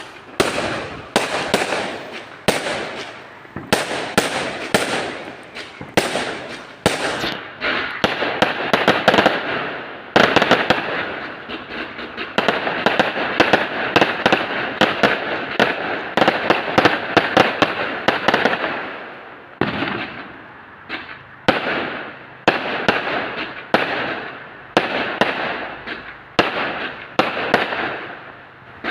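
Fireworks going off in rapid succession: a long run of sharp bangs with crackling in between. The crackling grows densest in the middle and thins out towards the end.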